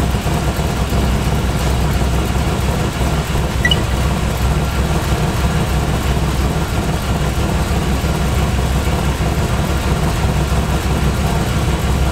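Chevrolet V8 with an Edelbrock carburettor idling steadily while the carburettor's air mixture screw is turned, with no change in the idle. Freshly timed, it runs smoothly and evenly.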